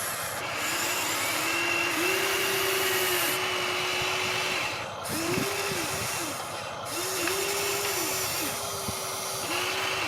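Electric motors and gearboxes of a Huina RC construction machine whining in short runs of about a second, stopping and restarting several times with brief drops in pitch between runs.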